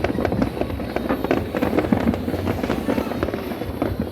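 Dense barrage of fireworks and firecrackers going off all at once: many overlapping bangs and pops that crackle on without a break.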